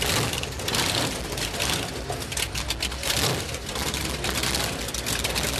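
Motorcycle engines idling close by, a steady rapid mechanical clatter with a low rumble underneath.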